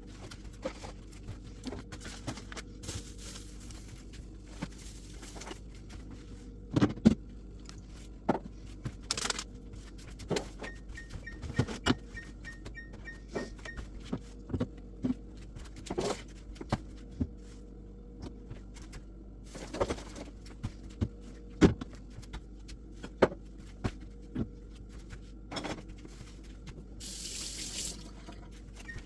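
Washing up at a sink: water running with repeated knocks and clatter of items being handled, and a short hiss near the end. A fast string of high electronic beeps sounds about a third of the way in.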